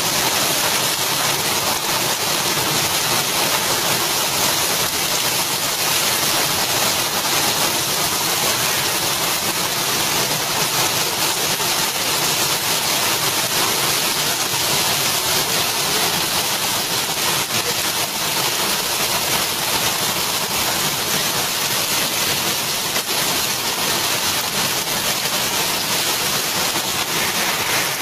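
Heavy rain pouring down onto a dirt road and trees, a steady loud hiss.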